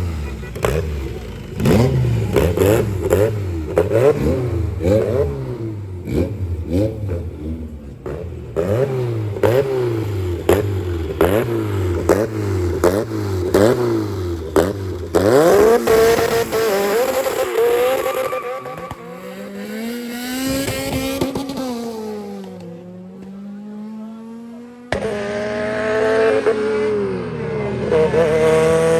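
Race car engine revved hard and repeatedly at the line, its pitch jumping up and dropping back over and over with sharp cracks. It then launches and accelerates away, rising in pitch through several gear changes as it fades. About four seconds from the end, a loud engine revving up takes over suddenly.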